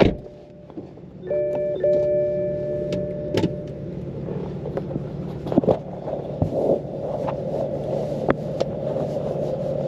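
A few sustained musical notes in the first seconds, then the straight-piped BMW F80 M3's twin-turbo inline-six running steadily at a low pitch, with scattered clicks over it.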